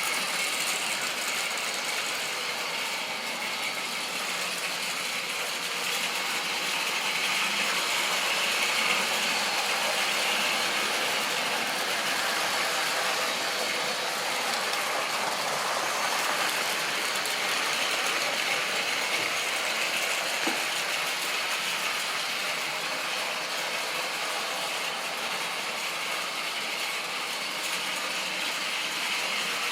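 Model train running on its track: a steady mechanical whirr and rattle from the locomotive's motor and gears and the rolling stock's wheels.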